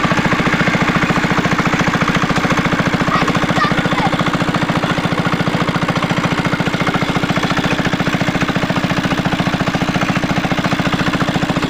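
Single-cylinder diesel engine of a shallow tube-well water pump running steadily with a fast, even beat.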